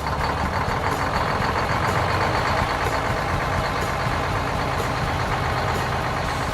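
Steady vehicle engine noise, a continuous rumble with a low hum that holds at an even level.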